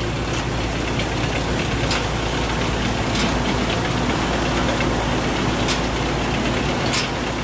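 Thai Seng Yont Chao Payu 4.0 combine harvester running steadily while harvesting rice, its engine and threshing machinery giving a continuous drone with a few faint ticks.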